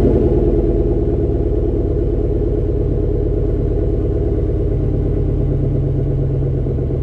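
2008 Buick LaCrosse Super's 5.3-litre LS4 V8 idling with its mufflers deleted, just after start-up. A loud, low, steady idle that eases down slightly in the first second or so as the start-up idle settles.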